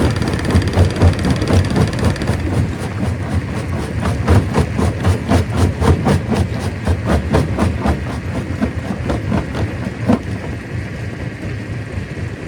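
Stone crusher machine running with a heavy rumble, stone knocking and clattering through it in quick repeated knocks, with one louder knock about ten seconds in.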